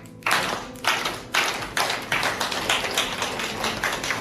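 Small group of people applauding: a few separate claps that quickly fill out into steady applause.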